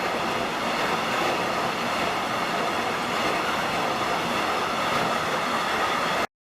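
Train passing along the track: a steady rush of wheels on rail with faint steady high tones in it. It cuts off suddenly near the end.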